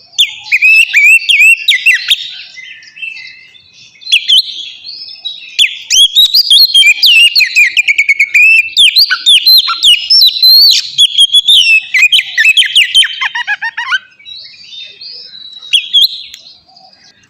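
Oriental magpie-robin (kacer) singing a long run of quick, varied whistled and chattering phrases. It eases off into a short lull near the end.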